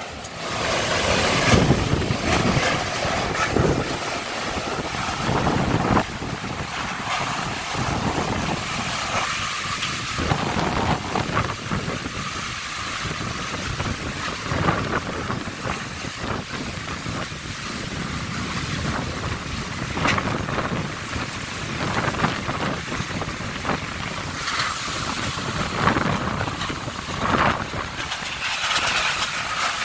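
Strong storm wind blowing in gusts, with wind rumbling on the microphone.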